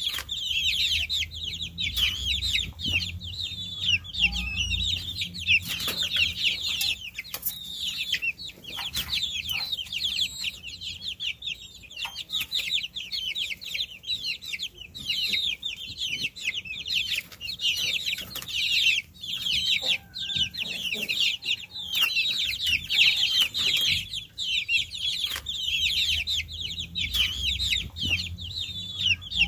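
A group of baby chicks peeping continuously, many high-pitched chirps overlapping.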